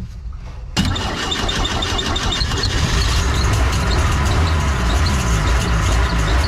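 Old boat engine with a Rochester carburettor, fed from an auxiliary fuel tank, starting up just under a second in and running, getting a little louder around three seconds in. The carb's idle circuit seems not to work, typical of clogged idle jets.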